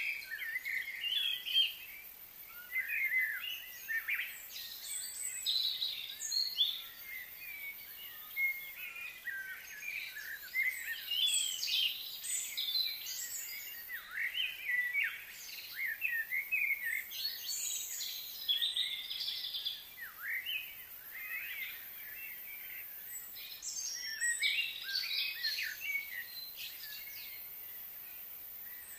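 Songbirds chirping and calling, a busy, overlapping chatter of short high chirps and quick sweeps that comes and goes in clusters.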